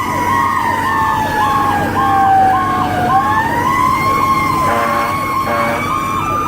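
A fire engine's mechanical Q siren winds down in a long falling pitch over about three seconds, then spins back up to a high whine. Underneath it, an electronic siren repeats its cycle about twice a second.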